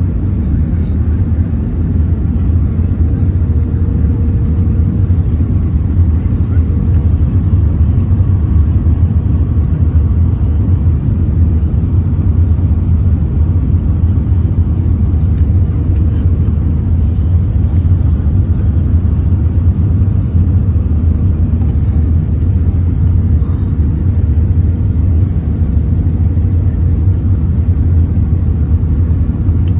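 Steady, loud low rumble of an airliner's cabin in flight: engine and airflow noise, unchanging throughout.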